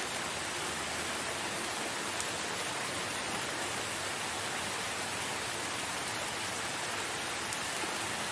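Steady rain falling in a forest: a constant hiss of rain with a few faint drop ticks.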